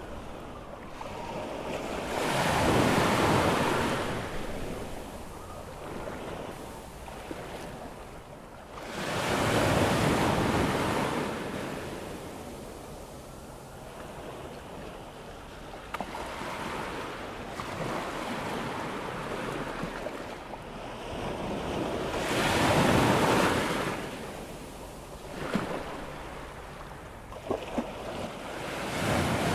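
Atlantic surf breaking and washing up a sandy beach as the tide comes in toward high tide: a steady wash that swells into three louder breaking waves, a few seconds in, around ten seconds in and about two-thirds of the way through.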